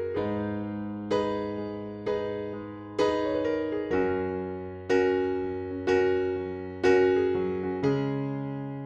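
Background music: a piano playing slow chords, a new chord struck about once a second and left to fade.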